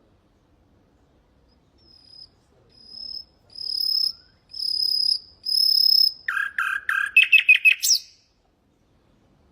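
Common nightingale singing one song phrase: a series of long, pure whistled notes that swell louder one after another, then a fast run of lower notes ending in a quick upward sweep.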